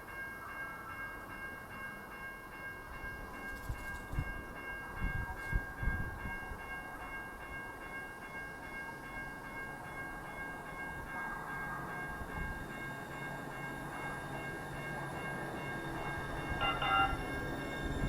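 Link light rail train running through the station with a steady electric whine. A few low thumps come about four to six seconds in, and a short, higher-pitched signal sounds near the end.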